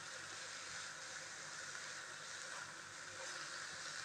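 Faint, steady sizzle of shredded chicken, cabbage and capsicum frying in a little oil in a pan as the mixture is stirred.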